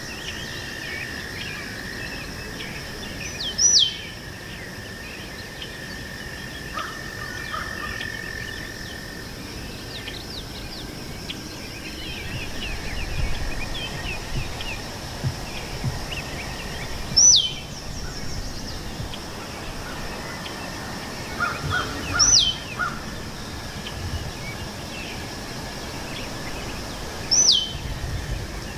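Birds singing outdoors. One bird repeats a loud, sharp whistle that slides steeply downward, four times, over many softer chirps and a steady high hum.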